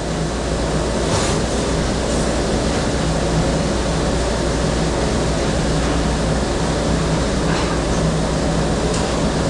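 Steady rushing and rumbling of a commercial dish machine running with water spraying, with a few faint clinks of dishes.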